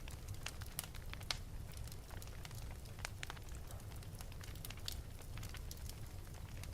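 Wood fire burning in an open fireplace: irregular sharp crackles and pops from the burning wood over a steady low rumble of the flames.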